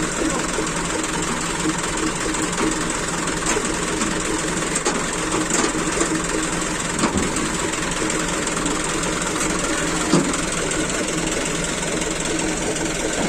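Diesel truck engine idling steadily, with a couple of short knocks over it.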